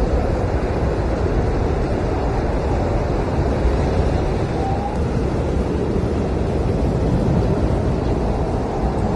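Howling blizzard wind blowing hard and steadily as a dense rushing roar, with a faint short whistle about five seconds in.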